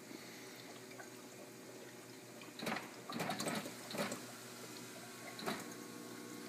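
KitchenAid ice maker making clicking noises over a steady hum: several clusters of sharp clicks in the middle, and one more click near the end. The owner does not yet know what fault causes them.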